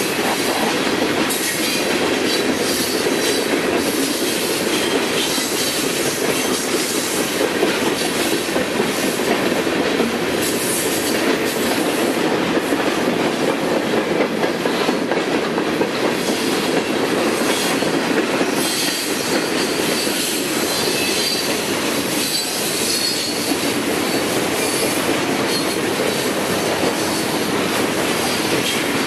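Freight train cars rolling past, a steady rumble of steel wheels on rail, with a thin high squeal from the wheels joining in during the second half.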